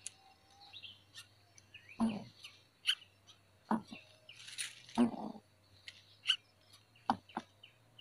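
Short, high bird chirps come on and off throughout, with several soft knocks or thumps in between (the loudest sounds, about four of them). A faint low hum runs underneath.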